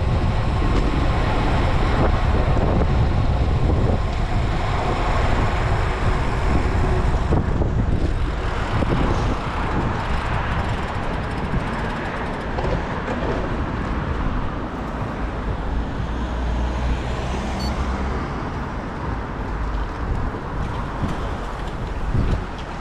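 Road-ride noise on a bike-mounted action camera: steady low wind rumble on the microphone with motor traffic passing.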